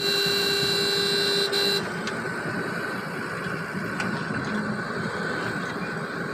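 A vehicle horn sounds for nearly two seconds with a brief break just before it stops, followed by a steady engine hum.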